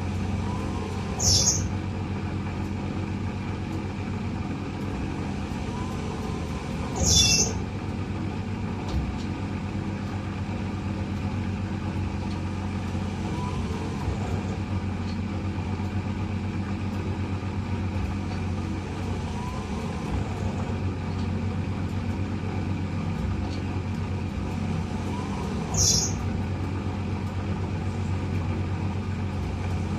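Eudora 38 Super washing machine running: a steady motor hum with the drum turning. A short, sharp hiss cuts in three times, near the start, about seven seconds in and near the end.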